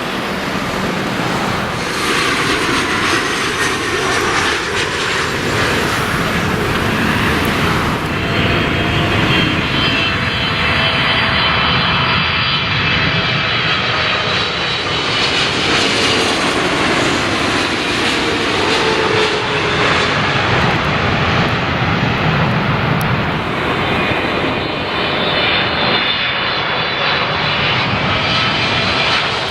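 Jet airliner engines running close by, a steady loud rush with several high whining tones that shift in pitch, strongest through the middle and again near the end.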